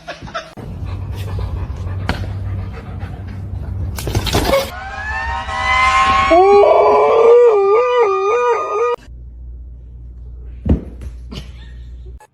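A dog howling: a long call that rises in pitch and then wavers up and down, ending sharply about nine seconds in, over a steady low hum.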